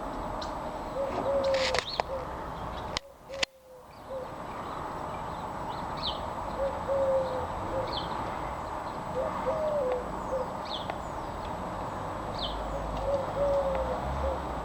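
Pigeon cooing in short repeated low phrases, with a few short high chirps from small birds over a steady background hiss. The sound briefly cuts out about three seconds in.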